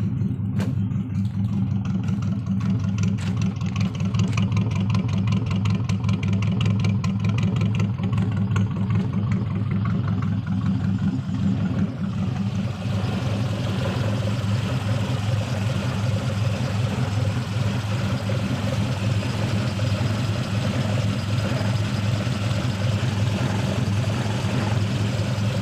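Motorcycle with an aftermarket exhaust idling steadily with a deep, fast, even pulse, Harley-like in character. About twelve seconds in the sound turns brighter, with more hiss added on top.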